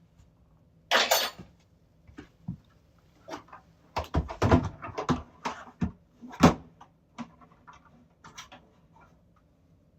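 Irregular clicks and knocks of sink plumbing parts being handled and fitted back together. A short rustling burst comes about a second in, and a dense run of knocks follows later, the loudest about six and a half seconds in.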